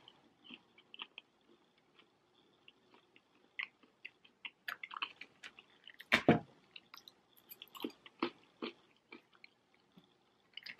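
Close-miked, quiet chewing and mouth sounds of Chinese takeaway salt and pepper chicken and chips, with small wet clicks. A few louder knocks as a fork picks at the food in a polystyrene takeaway box, the loudest about six seconds in.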